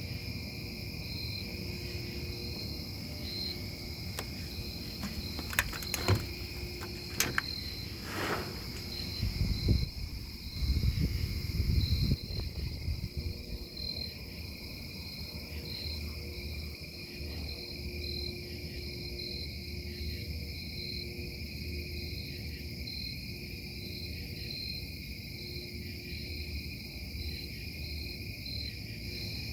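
Industrial noise from a metal-casting plant: a steady low rumble under high steady whines and a pulsing tone. A few sharp knocks and heavier low thumps come in the first half.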